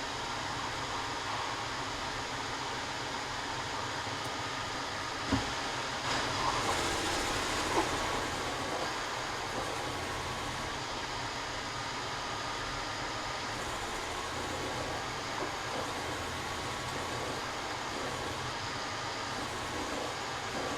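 A woodworking power tool running steadily, with a faint wavering whine over its noise. One knock comes about five seconds in, followed by a few lighter clicks.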